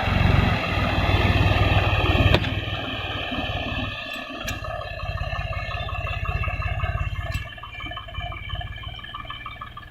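Tractor's diesel engine running steadily with a low rumble, with a sharp click about two and a half seconds in.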